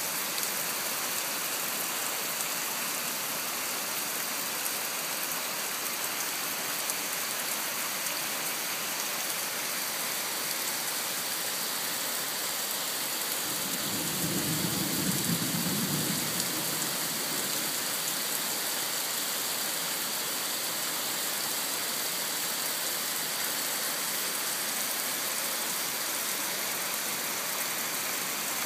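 Heavy rain pouring down in a steady hiss, with a brief low rumble that swells and fades about halfway through.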